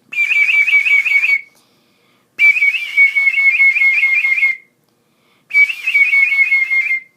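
A person whistling an imitation bird call: three warbling phrases of quick repeated notes, about six a second, each phrase drifting slightly down in pitch toward its end.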